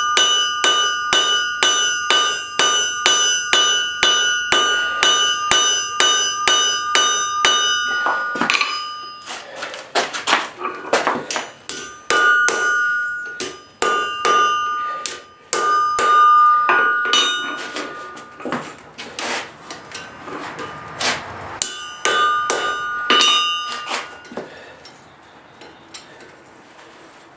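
Hand hammer striking hot steel on an anvil, the anvil ringing with each blow. Steady blows come about two and a half a second for the first eight seconds. After that the blows are irregular and spaced out, and they stop a few seconds before the end.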